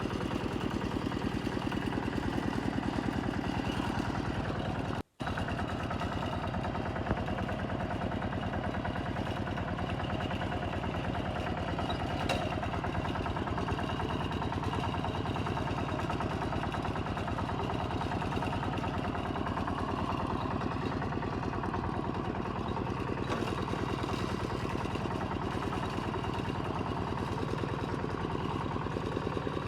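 Kubota M7040 tractor's four-cylinder diesel engine running steadily with an even firing rhythm, broken by a brief gap about five seconds in.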